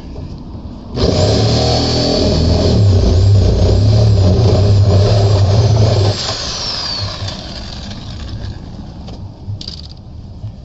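Handheld electric power saw cutting through a 55-gallon plastic drum. It runs hard for about five seconds, then is released and its motor whine falls away as it winds down, leaving lighter handling noise.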